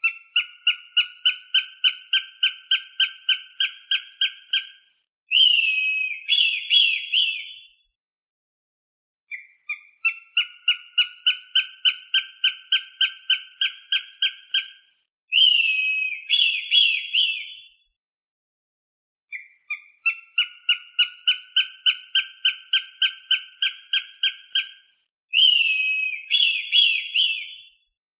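Recorded hawk calls used as a crow-deterrent sound. A fast, even series of sharp, high notes, about four a second, runs for about five seconds and ends in a short burst of falling screeches. The sequence repeats three times, about ten seconds apart.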